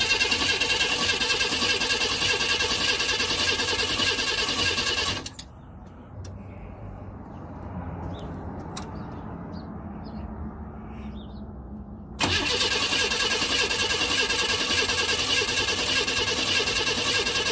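The V6 of a 1992 Chevrolet Camaro RS being cranked by its starter without catching: a steady cranking run of about five seconds, a pause of about seven seconds, then a second run of cranking that starts abruptly. A crank-no-start fault that the owner has not traced through fuel, spark or basic sensors.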